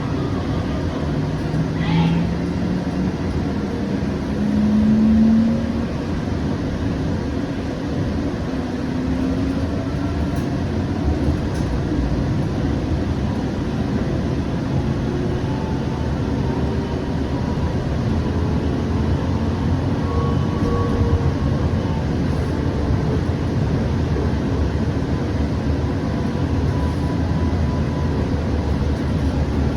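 Siemens S700 light-rail car running between stops: a steady rumble of wheels on rail, with the traction motors' whine rising in pitch over the first few seconds as the car gathers speed, then fainter, slowly gliding tones.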